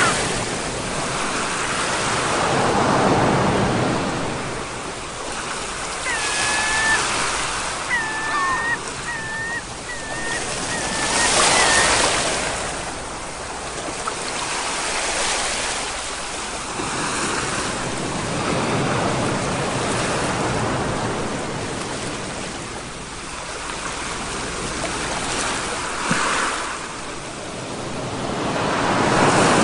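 Sea waves breaking and washing in, swelling and fading every three to five seconds. Several short high calls come in a run near the middle.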